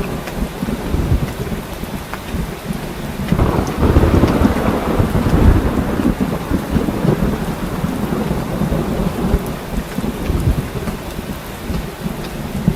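Heavy rain falling steadily, with thunder rumbling under it. A louder roll of thunder swells up about three and a half seconds in and lasts a couple of seconds.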